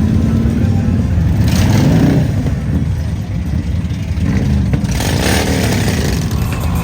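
Motorcycle engines running in street traffic, with a bike revving and passing by twice, about a second and a half in and again about five seconds in.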